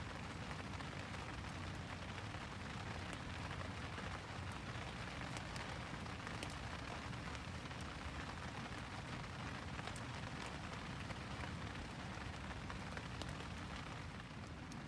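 Heavy rain falling on a plastic-sheet shelter, a steady hiss with scattered sharp ticks.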